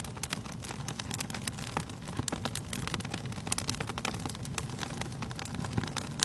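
Wood fire in a fireplace crackling: many sharp, irregular pops and snaps over a low, steady rush of burning logs.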